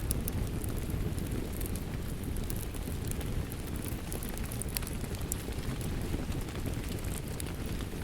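Wood fire crackling in a fireplace over steady rain: a continuous low rushing hiss with many scattered sharp pops and crackles.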